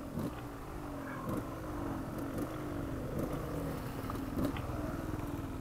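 Dirt bike engine running at low speed on a trail, its revs sagging and picked back up with the throttle about once a second.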